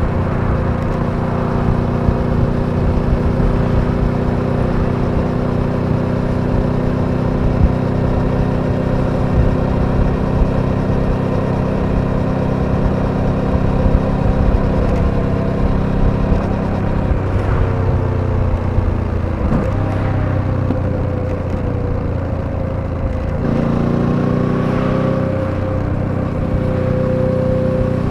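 Suzuki V-Strom 800DE's parallel-twin engine running under way at a steady pitch. About two-thirds of the way through, the revs fall away for a few seconds, then pick up again and hold steady, with a low rumble of wind and road under the engine.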